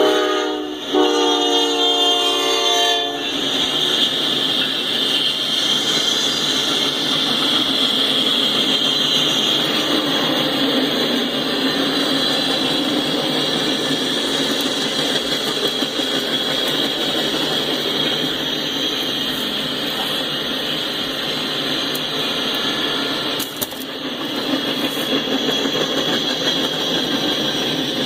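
A freight locomotive's horn sounds a multi-note chord that cuts off about three seconds in, followed by the steady noise of the freight train's cars rolling past on the rails.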